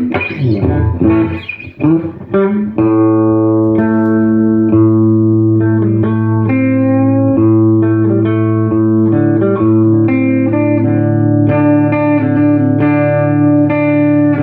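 Electric guitar played through a freshly serviced 1968 Fender Super Reverb tube amp, on a clean setting: a few loose notes at first, then held chords that change every second or so.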